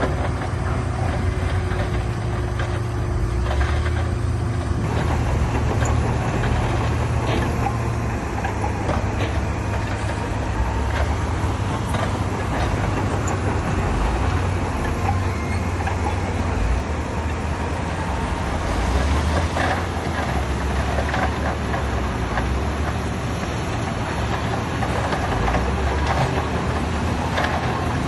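Heavy diesel earthmoving machinery running steadily, a low engine drone with occasional short knocks and clanks.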